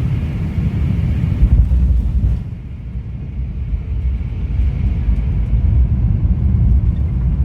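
Steady low rumble of an Airbus A350-1000 in flight, heard inside the cabin. About two and a half seconds in, it dips in level and loses its high hiss, then builds again.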